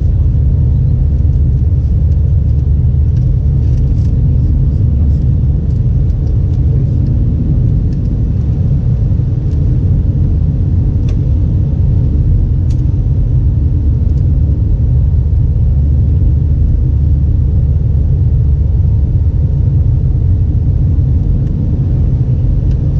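Steady low rumble inside the cabin of an Airbus A320 airliner, with a few faint ticks.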